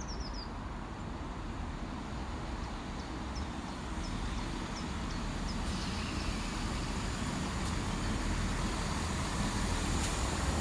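Class 165 diesel multiple unit approaching, a low rumble growing steadily louder, with small birds chirping in the first few seconds.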